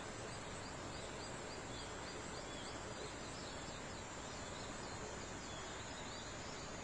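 Forest dawn chorus: a bird repeating short high notes, several a second, in a run through the first half and again near the end. Behind it are a steady hiss and a thin, high, steady insect tone.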